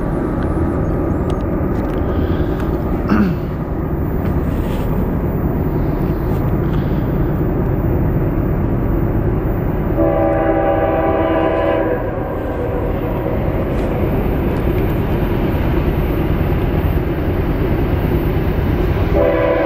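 CSX freight train passing close by: a loud, steady rumble of diesel locomotive and rolling cars, with the locomotive's multi-note horn sounding for about two seconds roughly halfway through and again right at the end.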